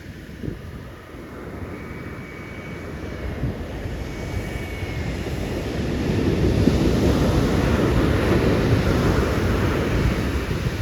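Ocean surf: a big wave breaking and rushing in, its noise swelling over the first six seconds or so and then staying loud.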